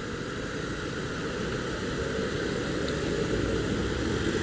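Yamaha Aerox 155 VVA scooter, fitted with an aftermarket exhaust, running on the road with wind rushing past, a steady rumble and noise that grows gradually louder.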